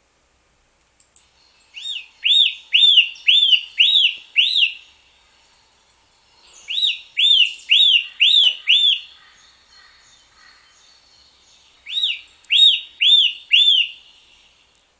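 A songbird singing three phrases, each a run of four to six loud, clear, down-slurred whistled notes at about two a second, with short pauses between phrases.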